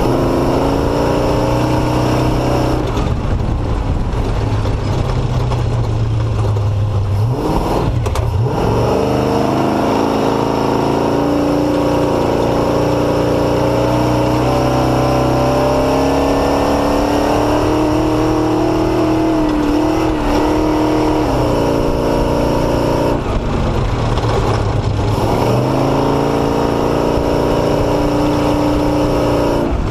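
Off-road motorcycle engine running hard along a dirt trail. Its pitch climbs under throttle and drops sharply at each shift or throttle change, several times, over steady wind and riding noise.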